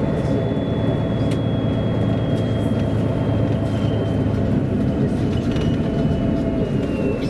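MAN A23 articulated city bus heard on board while driving: steady engine and running noise, with a thin high whine that slowly falls in pitch and a few light clicks and rattles.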